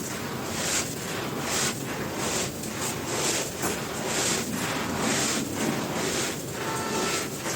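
Dry, dusty crumbly cylinders being crushed and crumbled by hand: a steady run of crisp crunches, about two or three a second.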